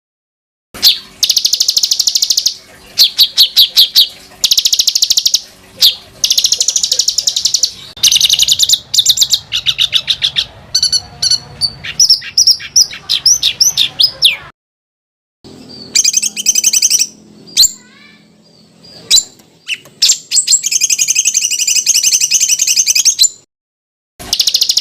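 Songbirds calling in rapid, tightly packed trills and harsh chattering notes, spliced together from several recordings with abrupt cuts, including a silent break of about a second partway through.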